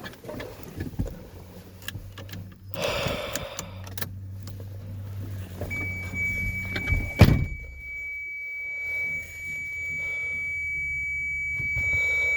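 Getting ready to start a 1999 Chevy 7500 dump truck: a steady high-pitched warning tone from the dashboard comes on about six seconds in and holds. A sharp thunk just after that, like the cab door shutting, is the loudest sound. A low steady hum runs underneath.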